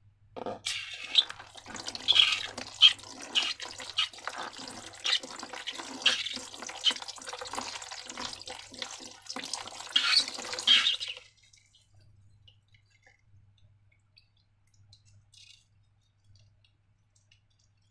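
Wet, sticky slime being worked: many small squelches, pops and clicks for about eleven seconds, then it stops.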